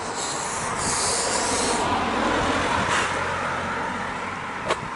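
Road traffic: a vehicle passing close by, its noise swelling and then fading away, with a short high hiss in the first two seconds.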